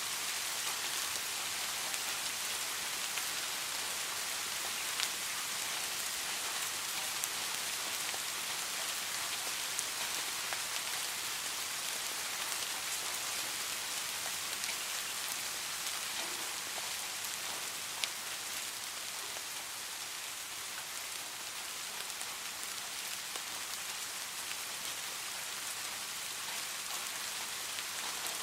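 Steady rain falling, an even hiss of dense drops with a few sharper ticks standing out, the clearest about five and eighteen seconds in.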